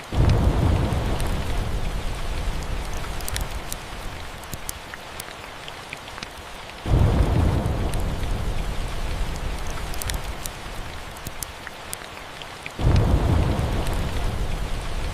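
Steady rain with thunder rumbling three times, each roll starting suddenly and fading out over several seconds, with light sharp crackles scattered through.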